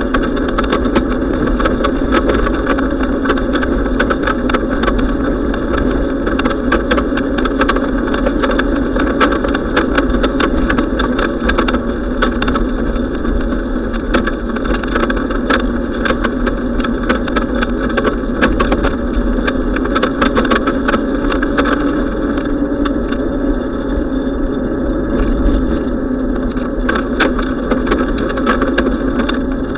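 Steady rush of riding a bicycle: wind on the microphone and road noise, with frequent small clicks and rattles throughout.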